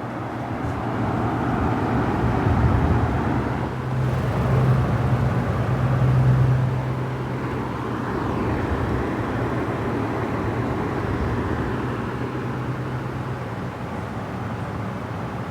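Mondial Maxi Power 60 cm table fan running: a steady motor hum under a rush of moving air, swelling louder over the first few seconds and then settling to an even level.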